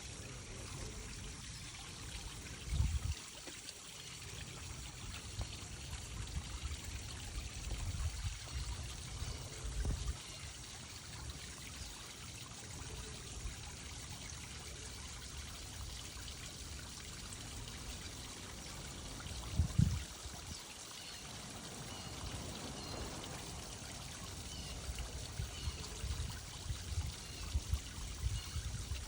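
Steady rush of running water, broken by a few low thumps, the loudest about twenty seconds in.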